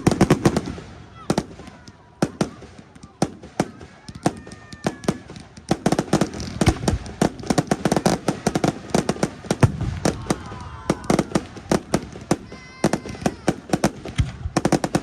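Fireworks display: a dense run of sharp bangs and crackling bursts from aerial shells, going on without a break.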